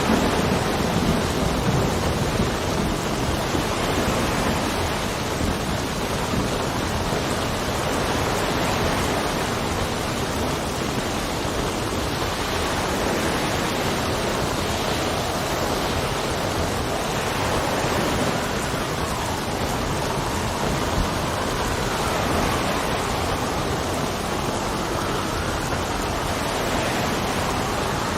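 Steady heavy rain with gusting wind, the wind's whistle rising and falling in pitch in the second half. A low rumble of thunder dies away in the first few seconds.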